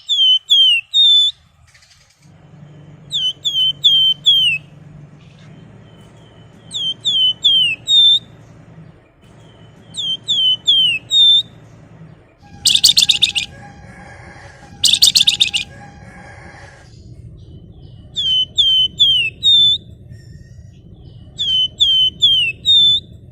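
Flamboyan songbird singing: short phrases of four or five quick whistled notes that slur downward, repeated every three to four seconds, with two loud rapid buzzing trills in the middle. A low steady hum runs underneath.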